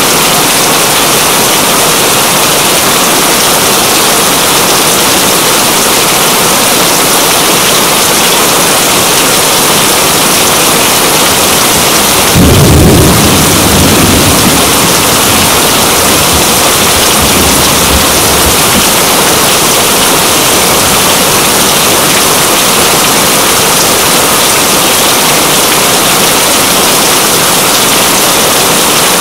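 Steady rain, with a roll of thunder that breaks in suddenly about halfway through and rumbles on for several seconds before fading.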